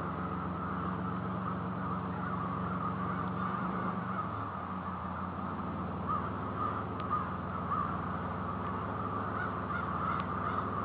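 A large flock of crows, thousands strong, cawing continuously in a dense overlapping din, with a few separate calls standing out now and then. A steady low hum runs underneath.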